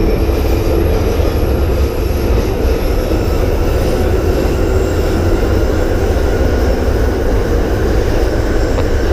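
London Underground train running: a loud, steady rumble with faint steady tones above it.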